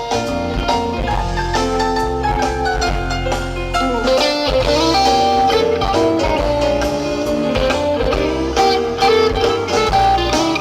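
Band playing an instrumental passage of a rock song: electric guitar lines over bass and a steady drum beat.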